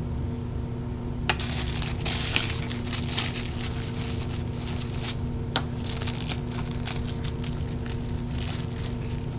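Crinkling of packing wrap and clinks of small hard parts being handled and unwrapped, with sharp clicks about a second in and about halfway through.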